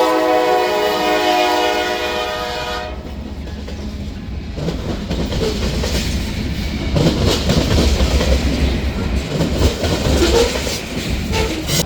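A train's horn sounding a sustained chord that cuts off about three seconds in. Then the train rolls by: a low rumble, with wheels clattering over rail joints and brief squeals.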